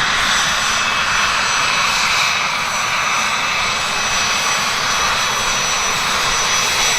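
Cessna 525 Citation's twin turbofan engines running steadily, a loud rushing noise with thin steady high whines over it.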